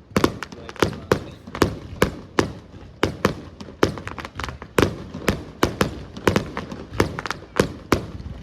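Fireworks bursting in rapid succession: sharp bangs about three or four a second, each trailing off in a short echo.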